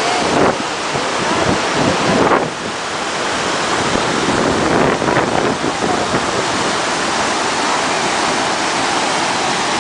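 Steady loud rush of a large waterfall, with wind buffeting the microphone in a couple of louder gusts in the first few seconds.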